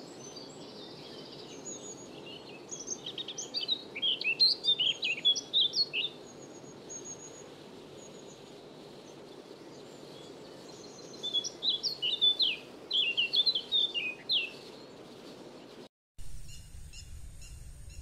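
A songbird singing two quick, jumbled song phrases of rapid sliding notes about eight seconds apart, over a steady low background noise. Near the end the sound cuts abruptly to a low rumble with faint, evenly spaced high chirps.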